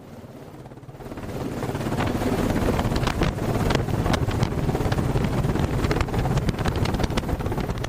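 Helicopter rotor and engine noise with heavy wind buffeting the microphone, building up over the first couple of seconds and then holding steady and loud.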